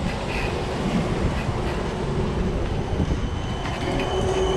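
Steady rumble of tyres and wind from a bicycle ride on a rainy city street, with a thin, high squeal coming in about three seconds in.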